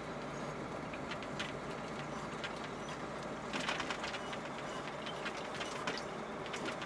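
Steady running noise inside a DAF 105 truck cab, with scattered light clicks and rattles, a few bunched together midway through.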